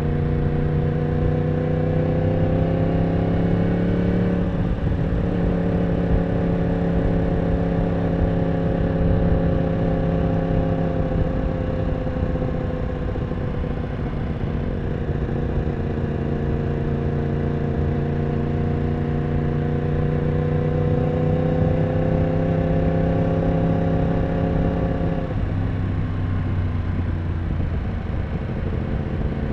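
Yamaha R1 inline-four engine running on the move. Its note climbs, eases off, climbs again, then drops suddenly in pitch near the end, with steady wind and road noise underneath.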